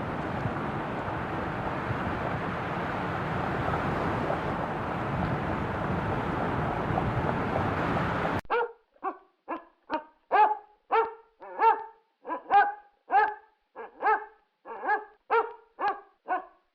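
A steady rushing noise that cuts off abruptly about eight seconds in, followed by a dog barking over and over, about two short, high-pitched barks a second with silent gaps between them.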